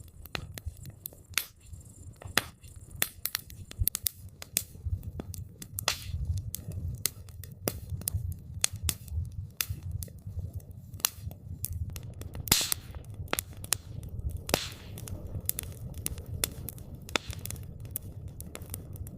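Wood campfire crackling, with irregular sharp pops and snaps over a low rumble of flame.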